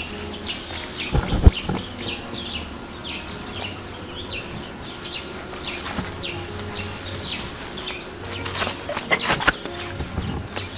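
Birds chirping: many short, quick chirps one after another, with a few thumps and rustles about a second in and a cluster more near the end.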